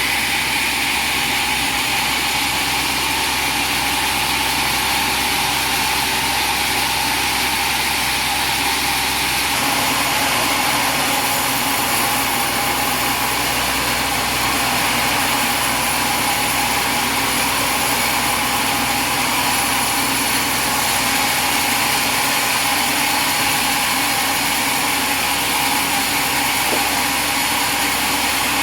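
Light portable sawmill running steadily, a continuous engine-driven machine sound whose tone shifts slightly about ten seconds in.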